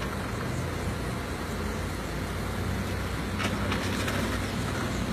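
Car engine running at idle as the hatchback creeps slowly while manoeuvring out of a tight parking space, over a steady low street hum.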